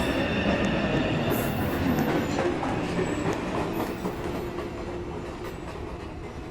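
New York City subway train pulling out of the station, wheels clattering over the rail joints, the rumble fading steadily as it moves away.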